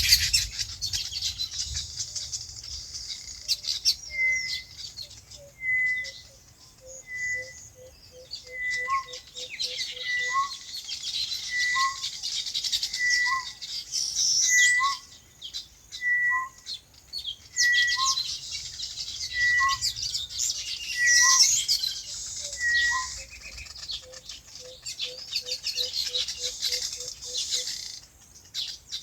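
A chorus of small birds chirping and chattering. Through it one bird repeats a clear two-note call, a high note then a lower one, about every second and a half. Twice a quick run of low notes comes at about four or five a second.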